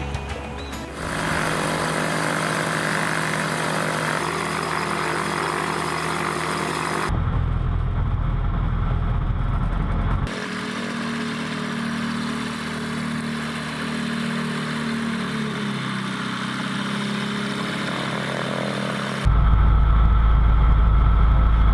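TL Sirius light sport aircraft's propeller engine running steadily at low power on the ground. The sound changes abruptly several times between a fuller engine tone and a deeper, muffled rumble, with two rumbling stretches about 7 and 19 seconds in.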